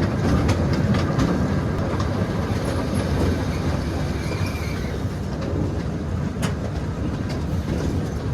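Miniature railroad train running along the track, heard from aboard a passenger car: a steady low rumble of the cars with irregular clicks of the wheels over the rail joints, and a faint, brief wheel squeal about four seconds in.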